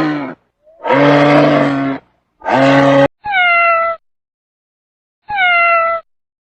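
Low, drawn-out calls from a large animal, one and a half calls of them, end about three seconds in. Then a domestic cat meows twice, short slightly falling meows about two seconds apart, the two alike.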